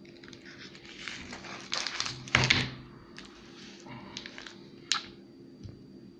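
A chocolate bar's packaging crinkling and rustling as it is handled. The rustle is loudest about two and a half seconds in, followed by a few sharp clicks and ticks.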